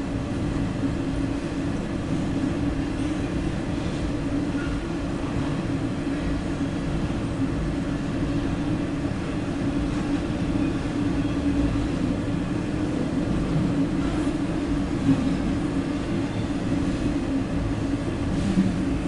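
CSX intermodal freight train rolling past, a steady rumble of wheels on rail.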